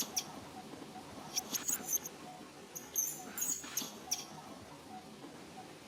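Baby monkey giving short, very high-pitched squeaks in three quick clusters, the distress calls of an infant upset at being kept from nursing.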